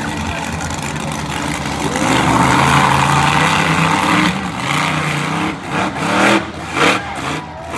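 Monster truck engine running loudly, swelling about two seconds in, then blipped in a few short revs near the end.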